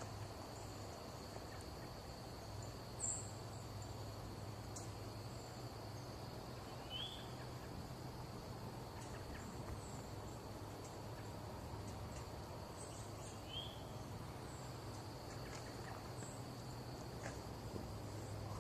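Faint outdoor evening ambience: a steady low hum and a steady high thin whine, with a few short bird chirps scattered through.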